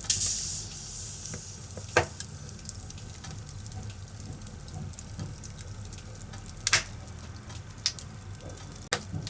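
Firewood burning in a fireplace: a steady hiss broken by sharp crackles and pops, the loudest about two seconds in and near the seven-second mark.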